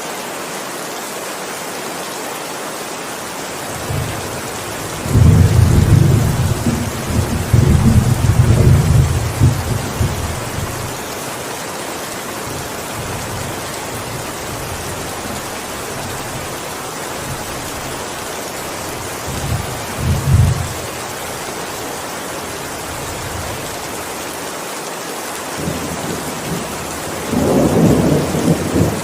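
Heavy rain falling steadily, with thunder. A long rolling rumble begins about four seconds in, a short rumble follows near the middle, and another builds near the end.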